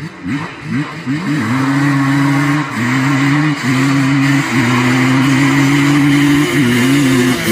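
Two-stroke ATV engine at full throttle in a drag race. It revs up in quick climbs over the first second or so, then holds a high, steady scream with brief dips.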